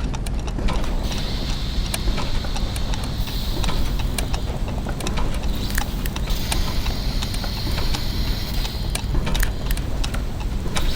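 Layered clockwork and gear machinery running: a steady low mechanical rumble under many irregular ticks and clicks, with a high squeak or whine that comes in twice, about a second in and again around six seconds in.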